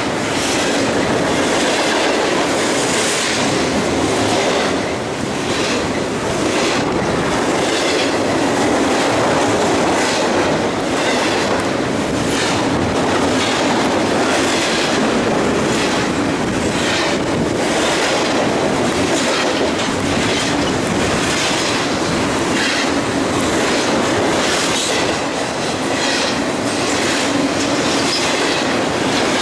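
Double-stack intermodal train's well cars rolling past: a steady loud rumble of wheels on rail, with a repeated clacking about once a second as the wheels cross rail joints.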